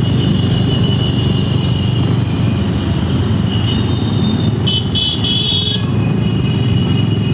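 Steady motorcycle engine and road noise on the move, with a short high-pitched tone about five seconds in.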